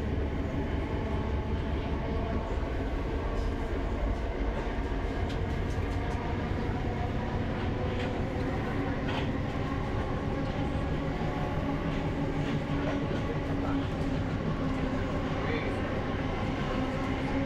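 Steady rumble of a passenger train in motion, heard from inside the carriage, with faint ticks over it.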